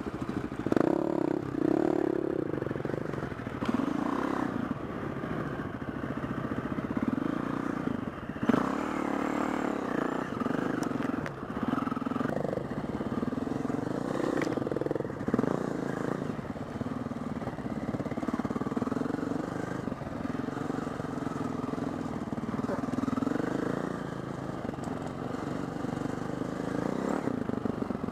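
Four-stroke single-cylinder enduro dirt bike engine running under load, its pitch rising and falling repeatedly as the throttle is worked on a trail ride.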